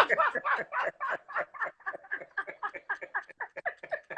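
A person laughing hard in a fast string of short cackling 'ha' pulses, about six a second, that starts loud and trails off quieter.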